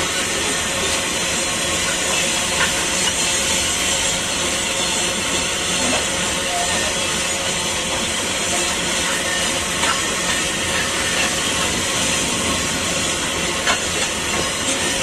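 Loaded open-top freight wagons rolling past on steel rails: a steady hissing rolling noise of wheels on track, with a faint clack every few seconds.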